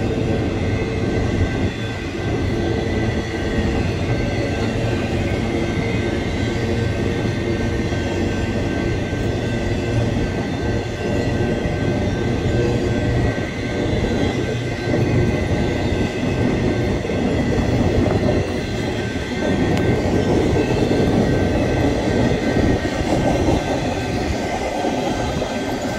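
Intermodal freight cars of a BNSF train rolling past close by while the train picks up speed: a steady, loud rumble of steel wheels on rail with a thin high whine running over it.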